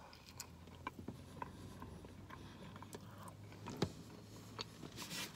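Faint chewing of French fries: soft mouth clicks and ticks scattered irregularly, with one sharper click a little before four seconds in.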